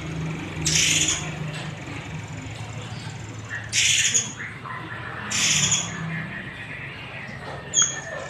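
A murai air songbird giving four short, harsh, rasping calls spaced a second or more apart, the last one sharp and brief, over a steady low background hum.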